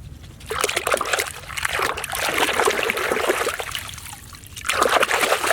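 Water splashing and trickling over muddy toy cars as they are washed. It starts about half a second in, eases briefly a little after four seconds, then picks up again.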